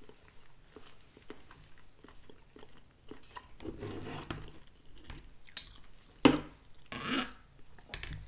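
Close-up chewing with small, regular mouth clicks, then the knife and fork clicking and scraping against the plastic TV-dinner tray while cutting Salisbury steak. The scraping and clicks are louder in the second half, with the loudest sharp knock about six seconds in.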